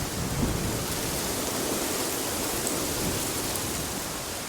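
A steady, even rushing hiss of background ambience, with a few faint ticks in it.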